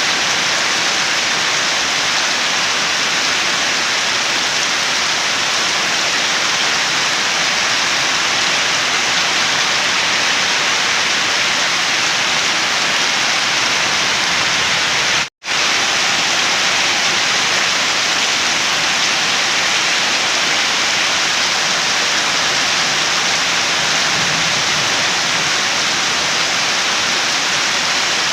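Steady heavy rain hissing, even and unbroken, with a momentary dropout to silence about fifteen seconds in.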